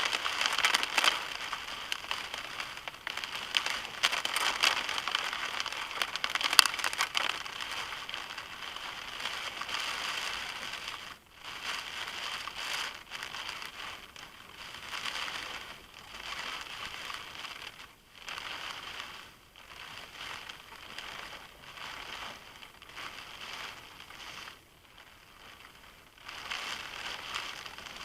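Heavy storm rain drumming and crackling on a car's body and windscreen, heaviest at first, then easing into weaker, uneven spells.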